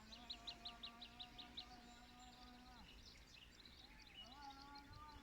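A songbird singing: a quick run of high, repeated chirps, about seven a second, then scattered higher notes. Under it, a steady low hum with a few overtones is held for nearly three seconds and returns briefly near the end.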